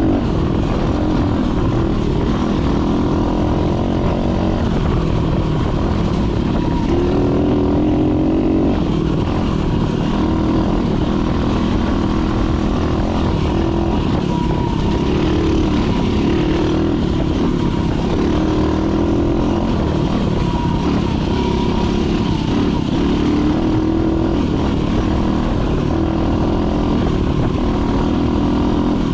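Dirt bike engine running as the bike is ridden along a trail, its pitch rising and falling repeatedly with the throttle, under a heavy low rumble.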